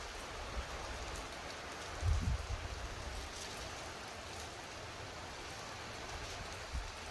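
Steady rain falling in a thunderstorm, with a brief low rumble about two seconds in.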